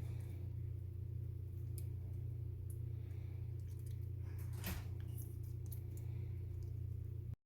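Faint sticky clicks and crackles of hands working sand slime, with one sharper click about two-thirds through, over a steady low hum. The sound cuts off suddenly just before the end.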